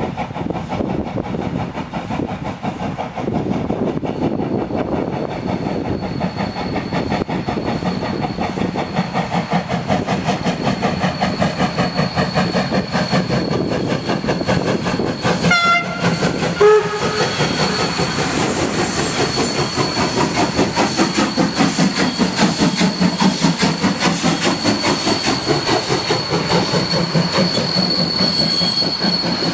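Steam locomotive working, its exhaust beats pulsing rhythmically, with a steady thin high tone over it. Its whistle gives a short blast about halfway through.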